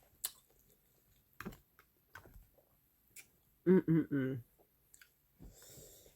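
Close-up chewing of ramen noodles, with scattered soft wet mouth clicks. About two-thirds of the way through comes the loudest sound, a short three-beat hummed vocal sound from the eater.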